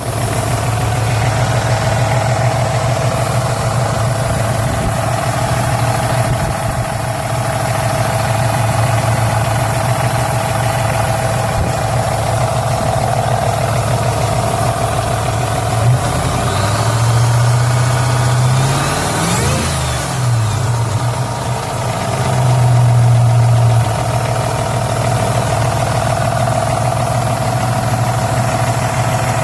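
2004 Mercury Marauder's V8 idling with lifter noise, its revs rising and falling a few times past the middle before it settles back to idle. The noise comes from bad lifters.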